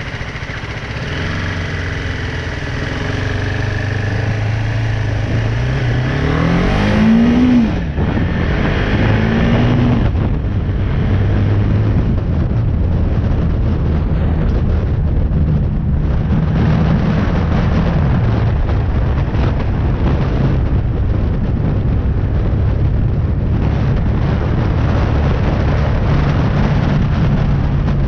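BMW G310R single-cylinder motorcycle engine pulling away and accelerating. Revs rise, drop sharply about seven and a half seconds in at a gear change, and rise again. It then settles into a steady cruise with wind rushing over the microphone.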